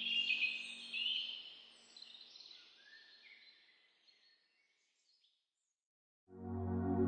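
Birds chirping over a low sustained tone, both fading out over the first few seconds, then about two seconds of silence. Near the end, soft ambient synthesizer music comes in suddenly with sustained chords.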